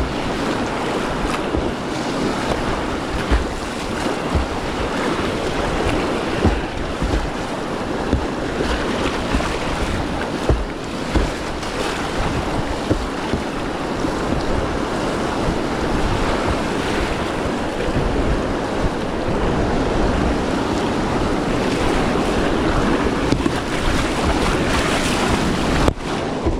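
River whitewater rushing steadily around a kayak, with occasional sharper splashes. Wind buffets the microphone.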